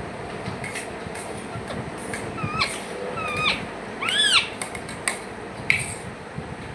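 Parrots calling to each other: a string of short chirps and whistled calls that bend in pitch, the loudest a rising-then-falling squawk about four seconds in.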